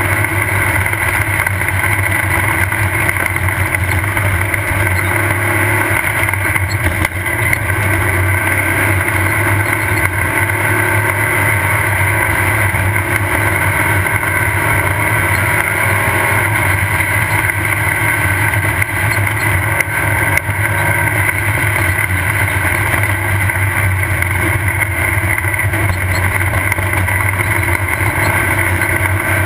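Off-road race car's engine running steadily, heard from on board the car.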